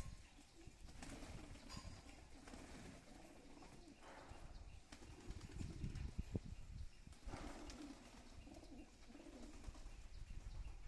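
Pigeons cooing softly, with brief flurries of wing flapping.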